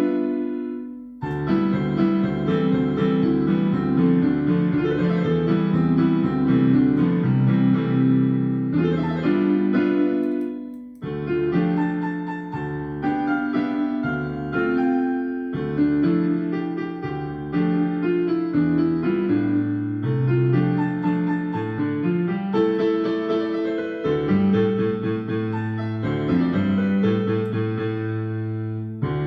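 Solo piano music, chords over a moving bass line, with two brief breaks: about a second in and about eleven seconds in.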